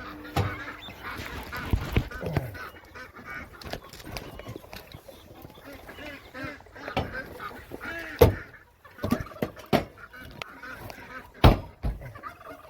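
A flock of birds calling over one another in many overlapping calls, with several sharp knocks, the loudest about eight seconds in and again about eleven seconds in.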